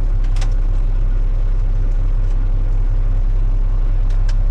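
Semi-truck diesel engine idling steadily, a constant low drone heard inside the cab. A couple of sharp clicks sound about half a second in and again near the end.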